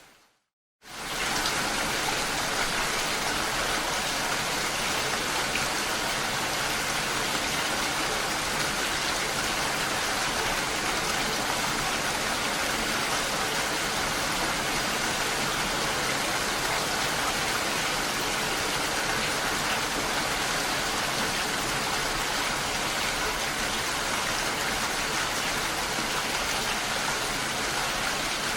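Steady, even rainfall. It drops out to silence for a moment at the start, then comes back in about a second in.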